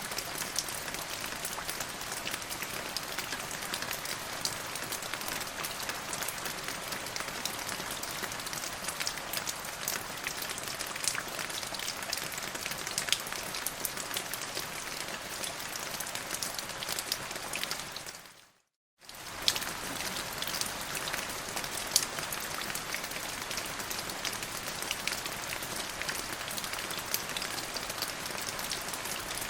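Steady rain falling, with many separate sharp drop hits over an even hiss. About eighteen seconds in it fades out to silence for under a second, then comes straight back.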